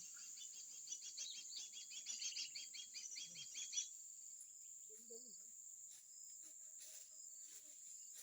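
Faint tropical forest ambience: a steady high-pitched insect drone, with a bird's rapid chattering run of high calls over the first four seconds or so that then breaks off.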